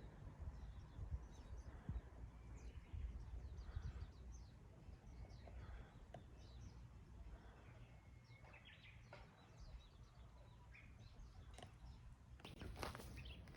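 Faint outdoor ambience: scattered short bird chirps and calls over a low rumble, with a louder rustle starting near the end.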